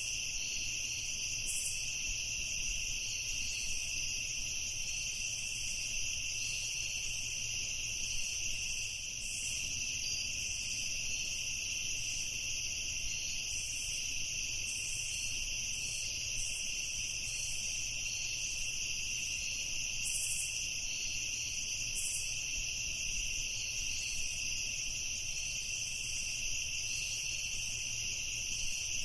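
A night chorus of crickets trilling continuously at a steady, high pitch, with brief higher chirps flickering in here and there.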